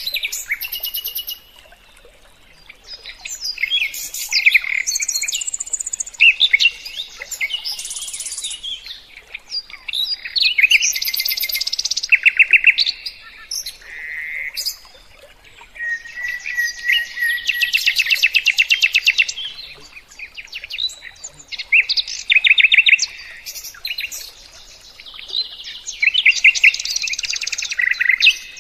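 Songbird song: varied high-pitched phrases and rapid trills, in bouts of a few seconds broken by short pauses.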